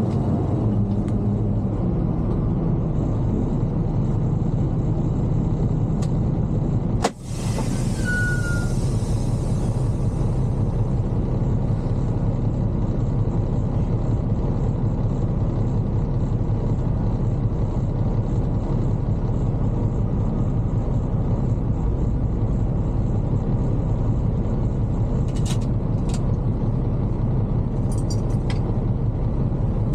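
Semi truck engine and cab noise, a steady low rumble, with a brief break about seven seconds in.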